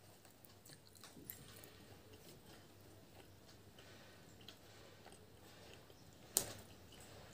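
Quiet close-up chewing of puri and ghugni eaten by hand, with faint scattered clicks as fingers tear the bread and dip it in the bowl. One sharp click about six seconds in is the loudest sound.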